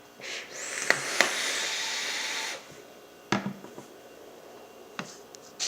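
A rushing hiss of air lasting about two seconds, with a couple of sharp clicks in it, then a few separate knocks and taps.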